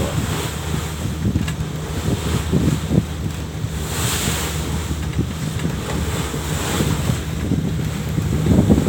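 Wind buffeting the microphone aboard a moving boat, over the rush of sea water and a steady low hum, with irregular gusts.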